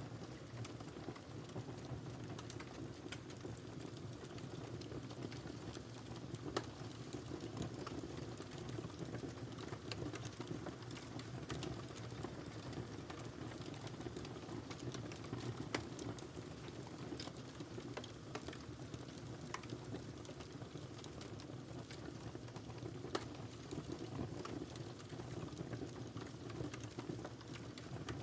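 Wood fire crackling in a fireplace: a steady low rumble of burning with irregular small crackles, and a few louder pops about a third of the way in, around the middle, and again later.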